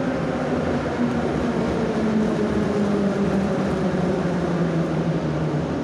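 Moscow Metro 81-717 'Nomernoy' train running, heard from inside the car: a steady rumble with a whine that slowly falls in pitch as the train slows.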